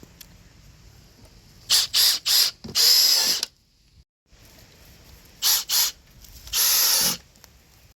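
Cordless power drill running in short trigger bursts, as when driving screws: three quick pulses and then a longer run, and a few seconds later two quick pulses and another longer run.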